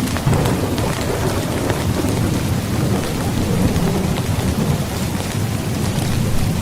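Heavy rain falling steadily, with a low rumble of thunder rolling underneath.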